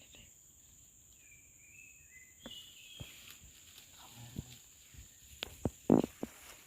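A bird whistles a few short thin notes, stepping up and down in pitch, over a quiet forest background with scattered small clicks. A single loud thump comes near the end.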